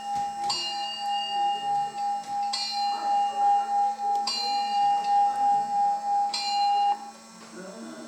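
Bell-like strikes about every two seconds over a steady, pulsing tone, both stopping abruptly about seven seconds in.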